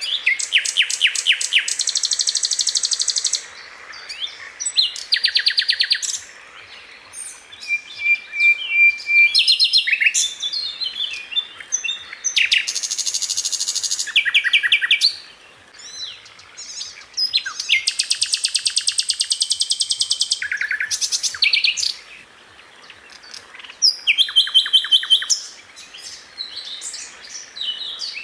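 Sikatan londo, an Indonesian flycatcher, singing in fast, tightly packed trills of rapidly repeated high notes. The trills come in bursts of one to two seconds, one after another, with short pauses between them.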